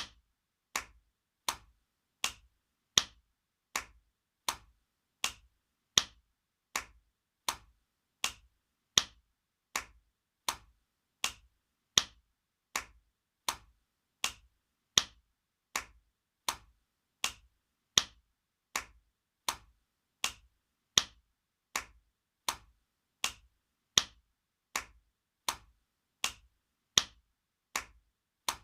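Spanking sound effect: a hand slapping skin in a steady rhythm of sharp, short slaps, about four every three seconds, with every fourth slap louder.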